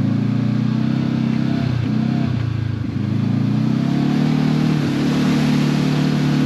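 Side-by-side UTV engine running under way, its pitch easing off a couple of seconds in and then rising as it accelerates.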